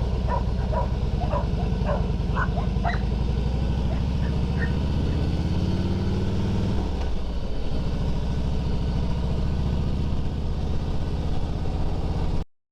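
Harley-Davidson Fat Boy's V-twin engine running on the move, rising in pitch as it accelerates for a few seconds, then dropping sharply about seven seconds in and running steady again. Several short barks, likely a dog, in the first three seconds. The sound cuts off abruptly near the end.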